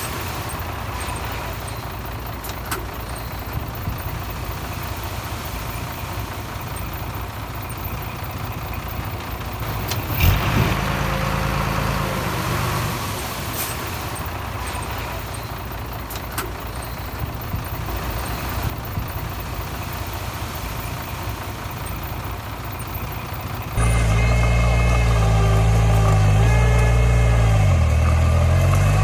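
Diesel engine of earthmoving machinery running, with a single sharp knock about ten seconds in. Near the end the engine sound becomes abruptly much louder, its pitch dipping and then recovering.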